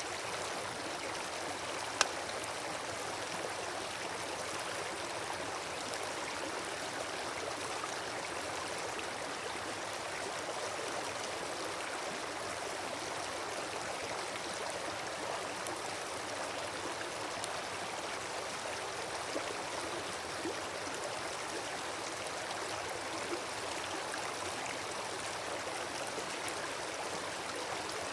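Wood campfire burning with a steady hiss and crackle, a sharp loud pop about two seconds in and a few fainter pops later.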